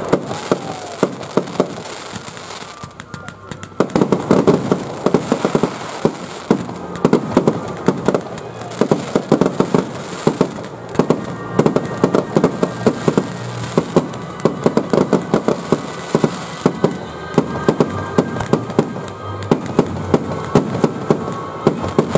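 Aerial fireworks shells bursting in quick succession, sharp bangs mixed with crackling. About four seconds in the barrage becomes denser and louder, a near-continuous run of bangs.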